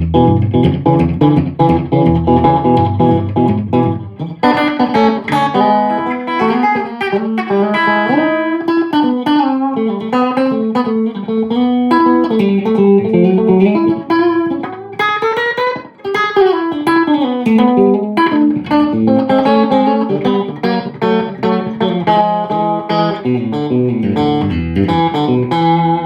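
Electric guitar played through a Visual Sound True Tone Dual Tap Delay pedal, which is set to a short slapback delay with a manual delay time. It plays a steady run of picked notes and chords, and each note has a quick echo just behind it. About two-thirds of the way through there is a slide down and back up in pitch.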